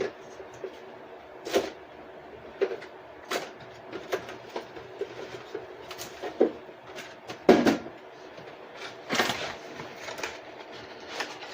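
Irregular knocks and clinks of kitchen utensils against cookware, about a dozen, some with a short metallic ring. The loudest comes about seven and a half seconds in.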